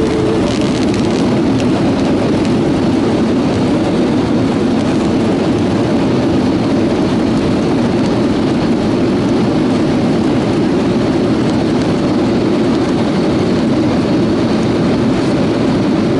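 Passenger airliner cabin noise during landing: a loud, steady roar of engines and rushing air heard from inside the cabin, with no breaks.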